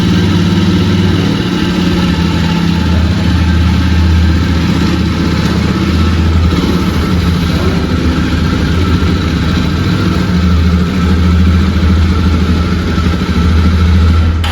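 A Jawa 42 Bobber's 334 cc single-cylinder engine idling steadily. Its mechanical engine noise stands out over the exhaust note, which the rider says comes from the engine rather than the exhaust.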